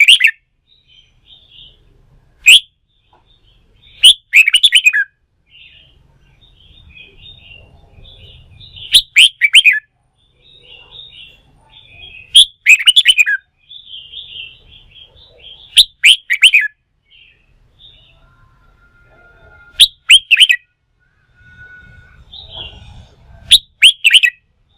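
Red-whiskered bulbul song: loud, short, bright phrases repeated about every three to four seconds, with softer chattering notes in between. This is the spirited contest-style singing used to fire up bulbuls in training.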